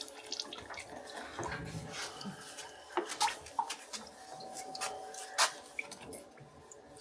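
Irregular light ticks and drips of fluid falling from disconnected oil cooler lines.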